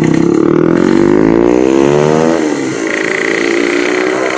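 Yamaha RX-King two-stroke single with a gutted (bobokan) exhaust, revving up steadily for about two seconds under acceleration, then dropping sharply in pitch about two and a half seconds in and running on at lower revs.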